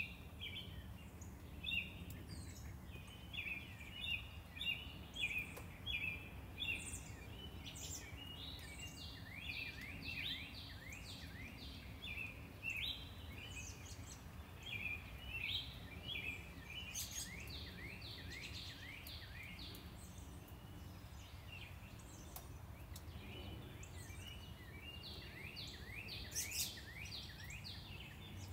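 Birds chirping in a steady run of short, quick notes that thin out a little past the middle and pick up again near the end, over the low steady rumble of distant traffic.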